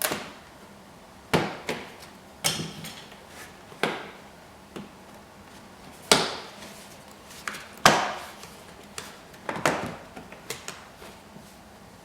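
Tesla Model 3 plastic interior trim panel being worked loose by hand: a dozen or so irregular sharp clicks and knocks as clips pop and the panel is handled.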